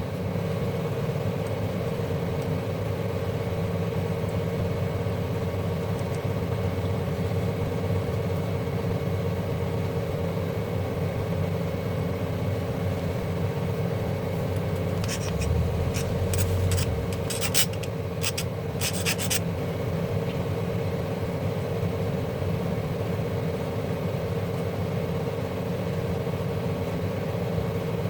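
Steady mechanical hum with a constant pitch, with a short run of sharp clicks and rattles a little past the middle.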